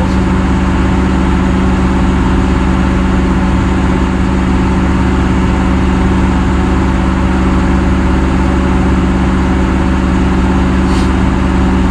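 Engine of the heavy machinery at the tire job idling steadily, a constant hum with no change in speed.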